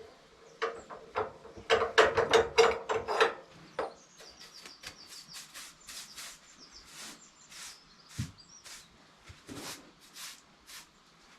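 A series of irregular knocks and clicks, dense and loudest for about three seconds near the start, then sparser, sharper clicks.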